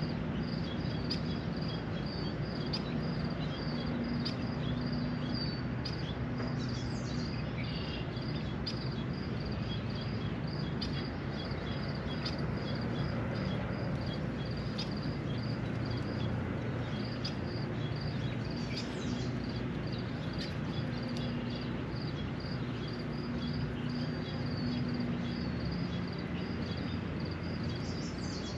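Steady rain shower hiss with a low rumble underneath, a continuous high, rapidly pulsing trill, and a few short bird calls, one about seven seconds in and another about nineteen seconds in.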